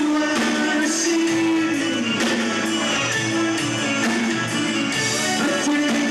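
A rock band playing live, with electric guitar and singing over a steady beat.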